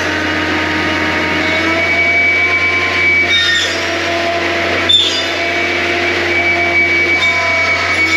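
John Deere 333G compact track loader running with its hydraulic cutting attachment: a steady low engine drone under high whining tones that shift up and down in pitch, with a single sharp knock about five seconds in.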